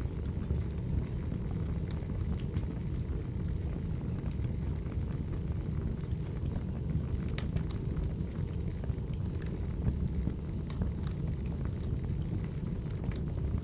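Wood fire burning: a steady low rumble with scattered crackles and sharp pops from the burning logs, a few louder pops bunched about seven to nine seconds in.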